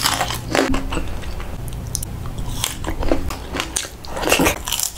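Close-up biting and chewing of crispy deep-fried food: a crunch as the bite is taken, then a string of irregular crunches as the crisp coating is chewed.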